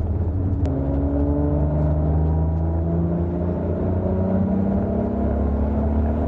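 Car under way: the Supra's turbocharged 2JZ engine and drivetrain give a steady low drone, with several tones slowly rising in pitch as it gathers speed.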